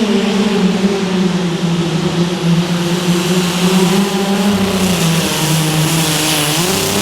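A truck- or tractor-pull vehicle's engine running hard under the load of the sled, with a steady pitch that sags slowly as the pull goes on. Its pitch dips lower after about five seconds, then climbs again near the end.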